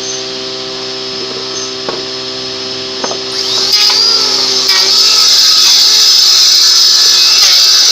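A power tool's motor running with a steady hum; about three and a half seconds in it gets louder and hissier and stays that way.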